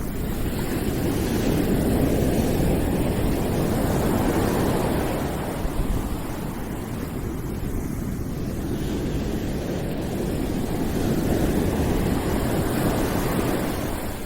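Low, dense rushing noise with no distinct events, swelling and easing slowly over several seconds: a white-noise ambience of the surf or wind kind.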